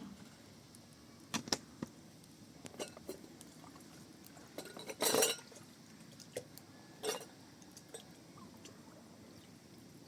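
Scattered knocks and clinks of things being handled, with a short rushing noise about five seconds in and a briefer one near seven seconds.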